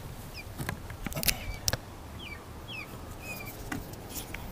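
Birds chirping in short, high, repeated calls, with a few sharp knocks and clicks around a second and a half in, as the camera is handled.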